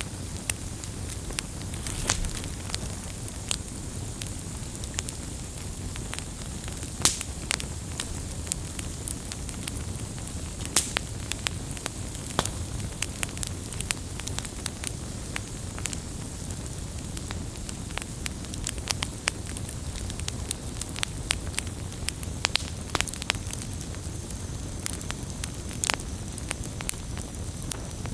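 Firewood burning: a steady low rush of flames with irregular crackles and occasional sharper pops from the wood.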